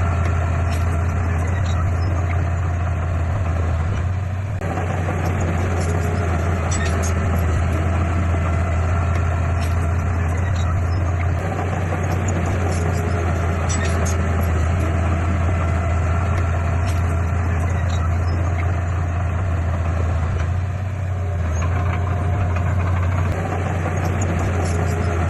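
Heavy diesel engine of earthmoving equipment running steadily, with two short dips in level, about four seconds in and about twenty-one seconds in.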